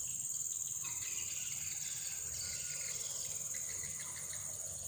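Steady, high-pitched insect chorus, an unbroken shrill drone, with a few faint chirps in the background.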